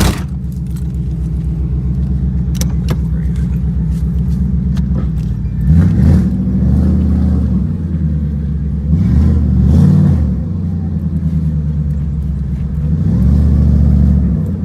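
Turbocharged Ford Coyote 5.0 V8 running steadily, then three surges of throttle that each swell and fall back, about six, nine and thirteen seconds in. A sharp knock comes right at the start.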